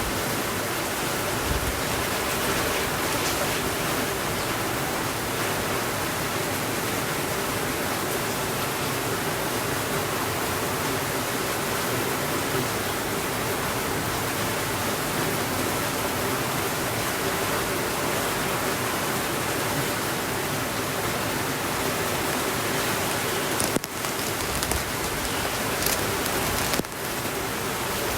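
Steady rainfall, an even hiss with no thunder. A few brief clicks and two short dips in loudness come near the end.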